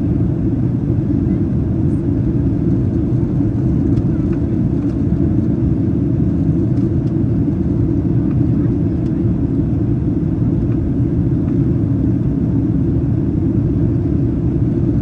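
Steady low rumble inside the cabin of a Boeing 737-800 in flight on approach: engine and airflow noise, with no change through the stretch.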